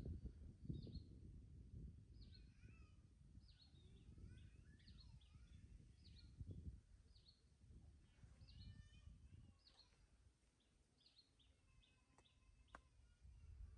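Faint, short, high chirps that fall in pitch, repeating about once a second, over a low rumble that eases off after the first half. A sharp click comes near the end.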